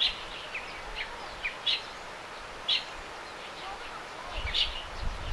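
Bulbuls in a cherry tree giving short, sharp chirps at irregular intervals, about one a second, over a steady outdoor hiss. A low rumble comes in near the end.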